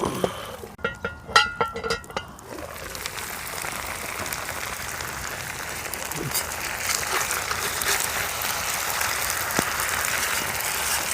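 Potatoes sizzling in a cast iron skillet over a campfire, the frying hiss building and holding steady. About a second in comes a quick run of ringing metal clinks.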